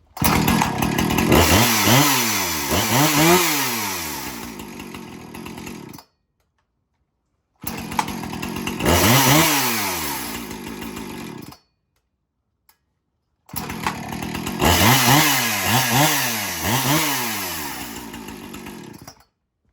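Two-stroke chainsaw running warm off choke, revved in quick throttle blips that rise and fall in pitch, then settling back toward idle. It comes in three stretches that each cut off abruptly into silence.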